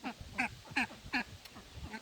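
An adult duck quacking: a quick series of about five loud quacks, each falling in pitch.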